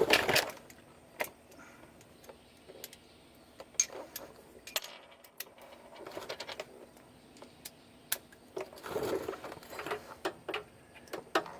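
Scattered metallic clicks and clinks of sockets, a chrome extension and a U-joint being handled and snapped together onto an impact wrench, with short quiet gaps between them.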